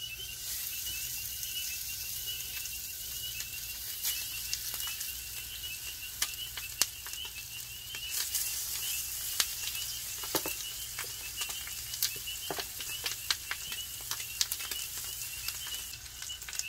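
Chicken wings sizzling and frying in a hot pan on a grill, with scattered pops and crackles.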